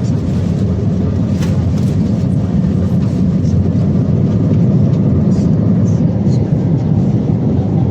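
Airbus A320 cabin noise: a loud, steady low rumble of the engines and airflow heard from inside the cabin around the landing. It swells slightly about halfway through.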